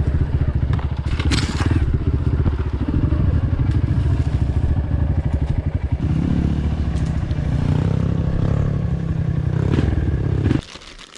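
Dirt bike engine running loud with rapid firing pulses, its pitch shifting about halfway through, then stopping abruptly near the end.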